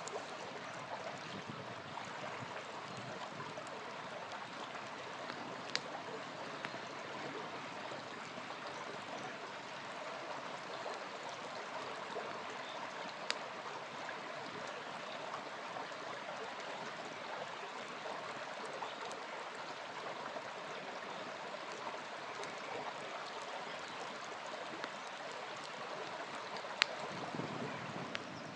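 Small river flowing steadily, with a campfire giving three sharp pops several seconds apart.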